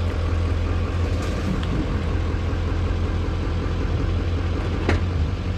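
Truck engine running steadily with a low rumble while a stuck truck is worked out of the mud, with one sharp knock near the end.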